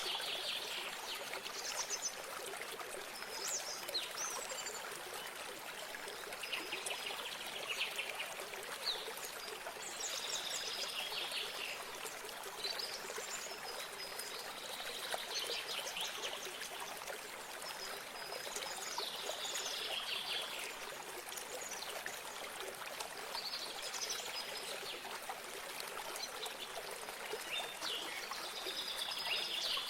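A small stream of water trickling steadily, with a songbird singing short trilled phrases every few seconds over it.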